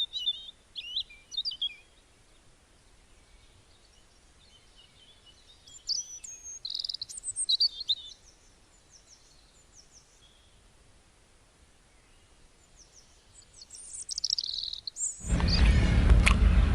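Small birds chirping in short, high calls, in three spells with quiet between. Near the end a sudden loud rushing noise cuts in and drowns them out.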